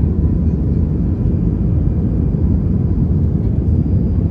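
Steady low roar inside an Airbus A320 cabin: jet engine and airflow noise, unchanging in level.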